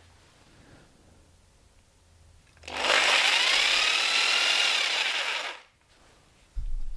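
A corded power tool run from the bench's newly wired power as a test: its motor spins up, runs for about three seconds, and winds down, the pitch rising at the start and falling at the end. It works, showing the wiring is live.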